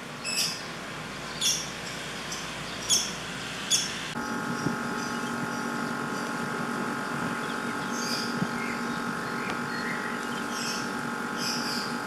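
Birds chirping outdoors, four short sharp calls about a second apart. About four seconds in, a steady hum with several pitches, like a machine running, starts abruptly and holds, with a few more bird chirps over it.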